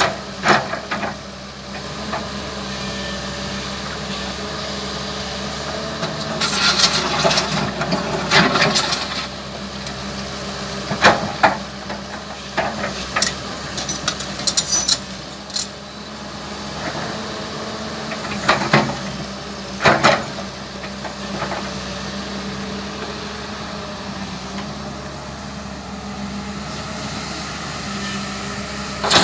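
Hyundai Robex 220LC-9S excavator's diesel engine running steadily under load, with scattered sharp knocks and bursts of clatter from the digging work.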